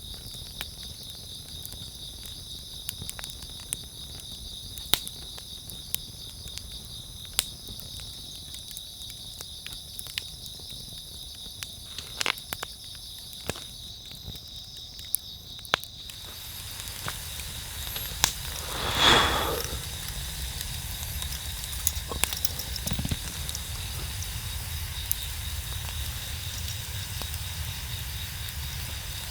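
Campfire crackling with scattered sharp pops, over steady chirping of crickets. About halfway through, a louder steady hiss sets in, with one brief louder rush a couple of seconds later.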